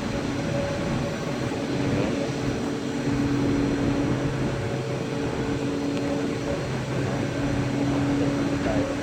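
Steady industrial drone of a coal-fired power station's boiler-house machinery, with a few low hum tones that come and go every couple of seconds.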